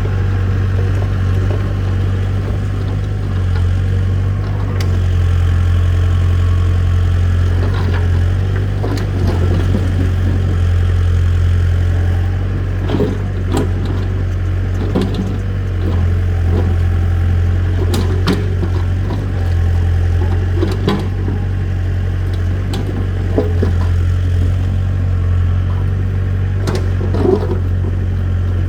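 Engine running steadily at a low, even pitch, with scattered sharp knocks and clacks over it.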